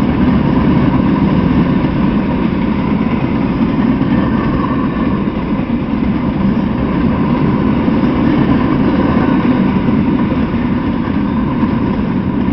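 Freight train cars rolling past on steel wheels over the rails: a loud, steady rumble and rattle.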